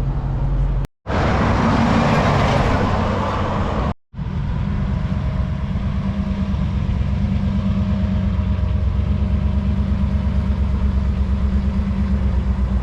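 Car engine noise in short edited clips. First comes a loud, noisy burst from a car revving or passing. Then, after a cut, an engine idles with a steady low rumble and an even, fast pulse.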